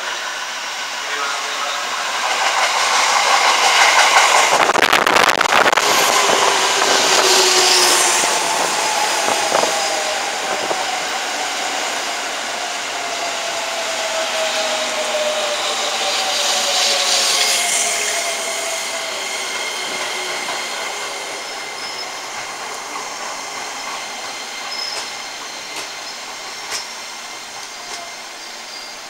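JR 205-series electric commuter train pulling into the platform and braking to a stop. A rush of wheel and running noise builds over the first few seconds as the train draws alongside, then a falling whine comes as it slows. The noise fades as the train comes to a halt.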